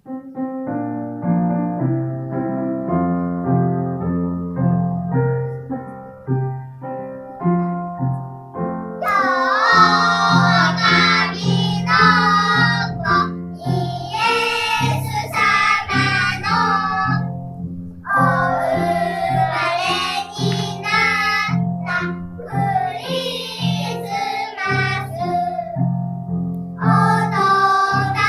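A recorded children's song: an instrumental intro over a repeating bass line, then children's voices singing from about nine seconds in, with short breaks between phrases.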